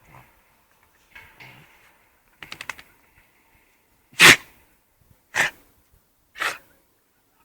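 Dog sneezing three times about a second apart, the first sneeze the loudest, after a quick run of short sniffs.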